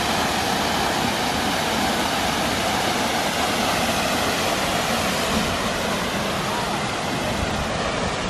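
Waterfall at Gooseberry Falls rushing steadily, a dense, even wash of falling water.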